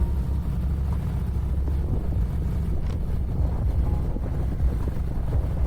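Harley-Davidson motorcycle engine running steadily, a constant low rumble, with wind noise on the microphone.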